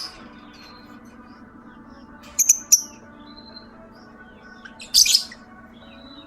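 Lovebirds giving shrill, sharp chirps: a quick cluster of a few calls about two and a half seconds in and another loud call about five seconds in, with faint twittering in between.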